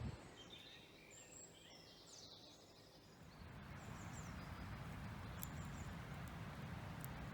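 Woodland birds chirping and trilling faintly, then from about three seconds in a steady low rushing noise that covers them.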